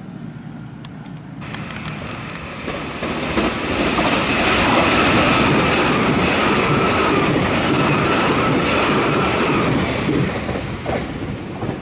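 Meitetsu 2000 series μSKY airport express train passing through the station at high speed without stopping. A rush of wheels on rail and air builds up, holds loud with a steady high whine, and eases off near the end.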